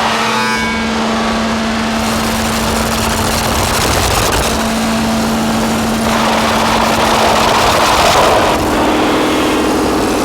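Distorted electronic noise drone from a modular synthesizer run through fuzz and filter pedals: a dense grinding, engine-like texture over a steady held tone. A noisy swell rises in the middle range about six seconds in, and a slightly higher tone takes over near the end.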